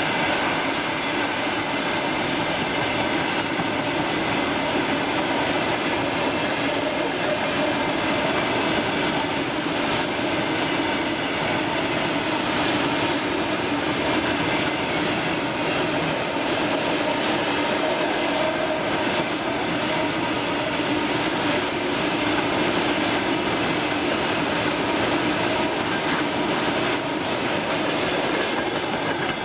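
Freight train of railway tank cars rolling past close by: a steady, loud rumble and clatter of wheels on the rails, with short high squeaks from the wheels every second or two.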